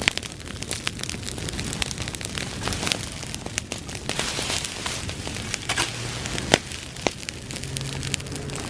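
Bonfire of dry summer grass burning: a steady rush of flame full of dense crackling and sharp pops, the loudest pop about six and a half seconds in.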